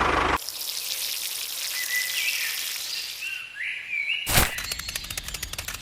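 A motor cuts off abruptly just after the start, leaving an outdoor ambience of insect hiss with a few short bird-like chirps. A single sharp knock comes past the middle, followed by rapid, even clicking.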